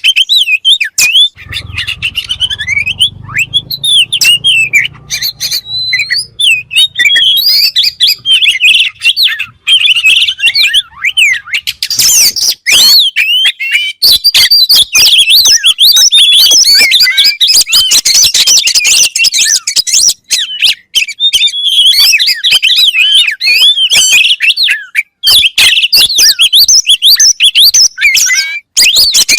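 An Oriental magpie-robin (kacer) sings a loud, unbroken song of rapid high whistles and chirps.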